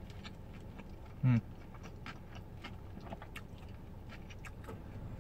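Close-up chewing of a burger: wet mouth clicks and smacks, with a short hummed "mm" about a second in.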